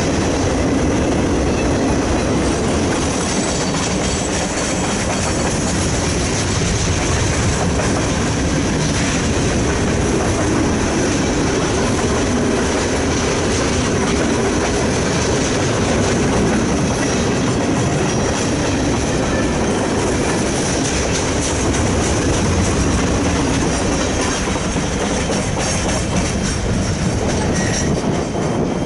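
Freight train cars rolling past on the rails: a steady, loud run of wheel noise with clickety-clack over the rail joints.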